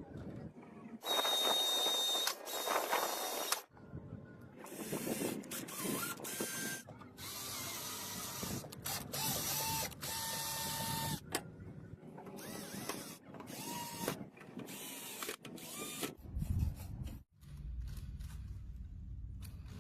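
A run of short, abruptly cut bursts of small-machine noise: mechanical rattling and whirring, some with a steady or briefly rising motor whine.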